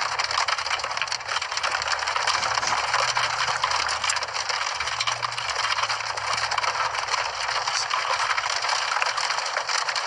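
Storm noise during a tornado intercept: a dense, steady crackling rattle of many small impacts over a low rumble.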